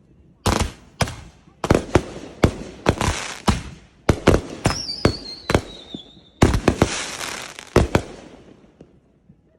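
Fireworks going off: a rapid, uneven series of sharp bangs, each trailing off in crackle. A falling whistle sounds about halfway through.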